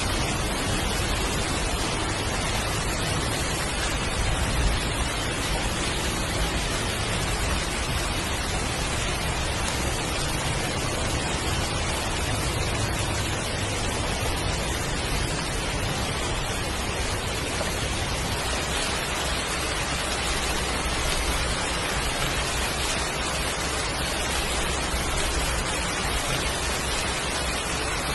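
Heavy rain falling in a steady, dense hiss, with a low rumble underneath that swells and fades.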